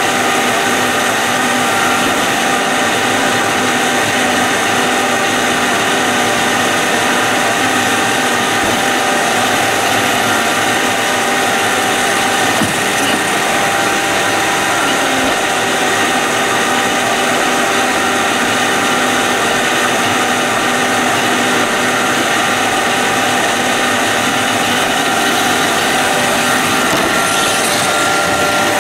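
iRobot Roomba 531 robot vacuum running: a steady mechanical whir with several constant tones and no change in level.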